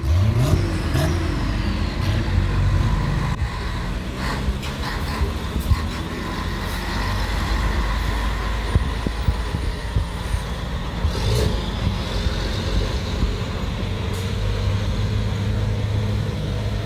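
Scania T-series trucks' six-cylinder diesel engines running as they drive along the street, one revving up with a sharply rising pitch in the first second, then running steadily over street traffic noise.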